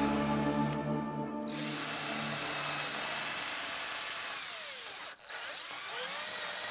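Electric drill boring into a wooden board.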